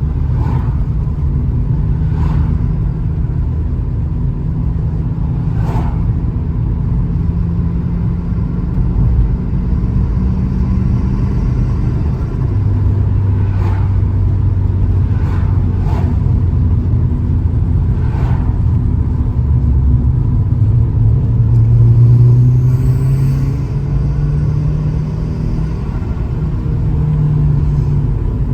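Turbocharged Vauxhall Astra GSi engine and road noise heard from inside the cabin while driving at moderate speed. The engine note drops in pitch about halfway through and climbs again later on, loudest a little past three-quarters of the way, with a few short clicks or knocks scattered through.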